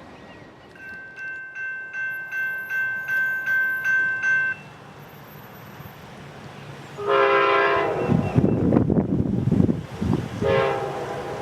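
A bell rings about three strokes a second, growing louder, then stops abruptly. A few seconds later a diesel locomotive's horn sounds a long blast and then a shorter one over the low rumble of the moving train.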